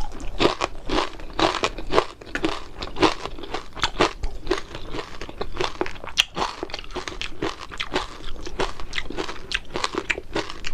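Close-up crunching and chewing of crispy fried fish: a dense, irregular run of sharp crunches, several a second, from bites of the crisp-fried crust.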